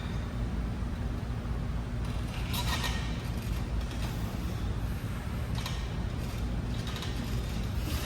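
Steady low hum of gym room noise, with a few short metallic clinks and scrapes from exercise equipment during a set of rows, about two and a half seconds in and again near six and seven seconds.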